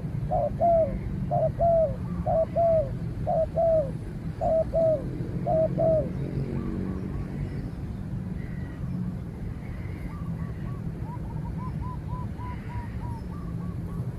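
Spotted dove cooing, repeating a phrase of paired, slightly falling coo notes for about six seconds. Later a fainter, higher run of short quick notes comes from another bird.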